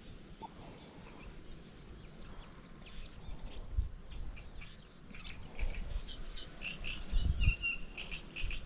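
Small birds chirping, building to a quick run of chirps with one short held note near the end, over a few low rumbles.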